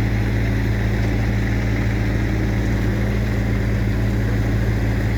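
A heavy vehicle's engine running steadily, a deep even hum that does not change.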